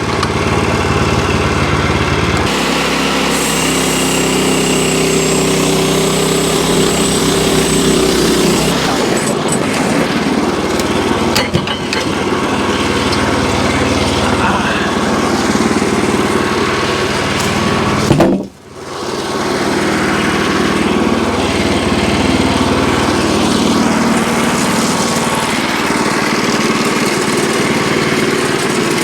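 An engine running steadily under load, with a brief sharp drop in the sound about two-thirds of the way through.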